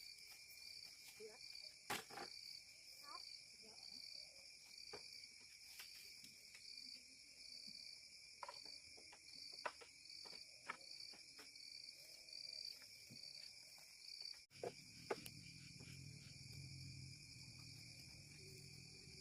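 Insects chirring steadily, one of them in short, evenly spaced pulses. Scattered faint clicks and taps are heard, and about three-quarters of the way through a low rumble joins in.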